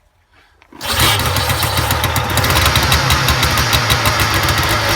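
Vintage Ski-Doo TNT 340 snowmobile's Rotax 340 two-stroke engine catching about a second in and running loudly on half choke, a cold start at about −32 °C.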